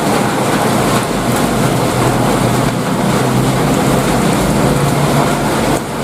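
Heavy rain pouring steadily, a dense even hiss with a steady low hum beneath it; the level dips briefly near the end.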